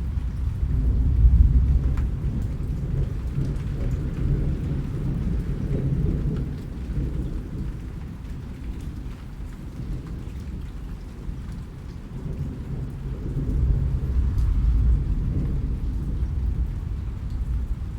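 Steady rain with low, rolling thunder that swells in the first few seconds and again about three-quarters of the way through, with faint scattered drop ticks.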